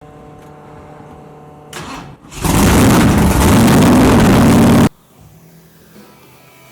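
Ford 460 big-block V8 in a drag-race Mustang starting up: a faint steady hum, then about two seconds in the engine catches and runs very loud for a couple of seconds before cutting off suddenly.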